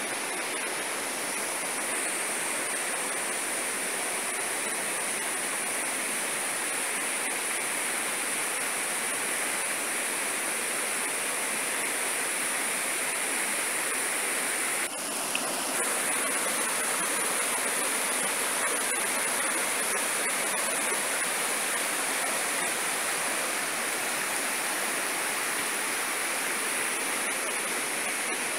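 Heavy downpour of rain: a steady, dense hiss, with a brief dip in level about halfway through.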